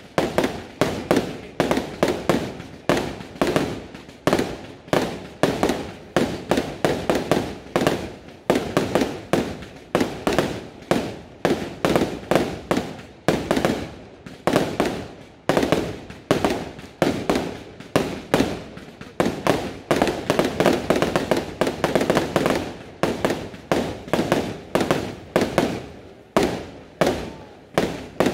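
Aerial fireworks display: a continuous barrage of shell bursts, several bangs a second, each dying away in a short echo.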